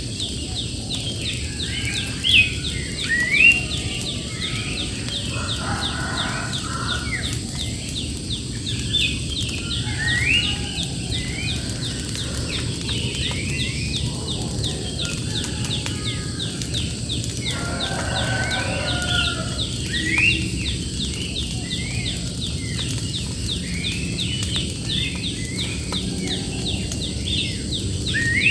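Birds calling repeatedly with short, rising whistled notes, over a fast, even, high ticking that carries on throughout.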